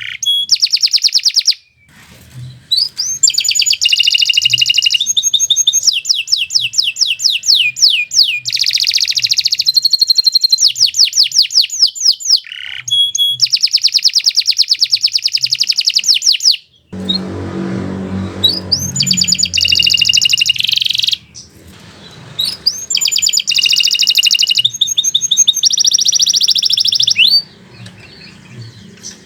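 Domestic canary singing long, loud, rapid trilled phrases high in pitch, one phrase after another with brief pauses between them. About halfway through, a short low rumbling noise sounds under the song.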